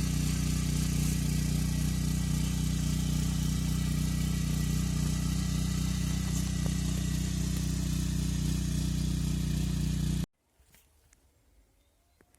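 Walk-behind tractor engine running steadily at an even speed, then cutting off suddenly about ten seconds in.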